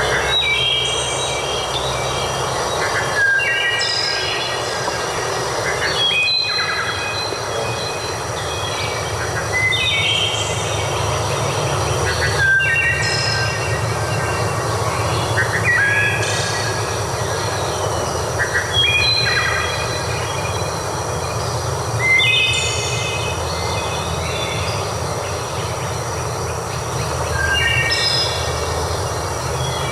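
A songbird repeating a short, high-pitched phrase of stepped notes about every three seconds, over a steady rushing sound like flowing water.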